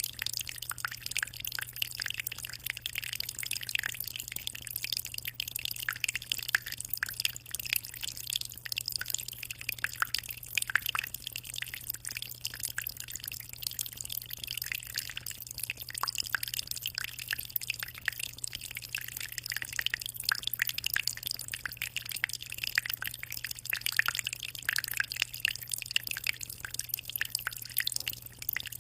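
Water trickling and splashing in a 60-litre aquarium: a steady, dense patter of small drops. A low steady hum runs underneath.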